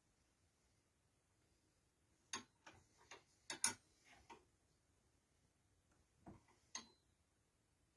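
Scattered light clicks and knocks of objects being handled: a quick cluster of about six a little after two seconds in, then two more near seven seconds, over near silence.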